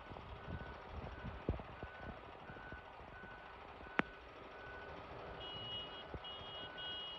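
Electronic warning beeper sounding a short high beep about twice a second, with a second, higher-pitched beeping joining in for the last two seconds, over a faint low rumble. There is one sharp click about four seconds in.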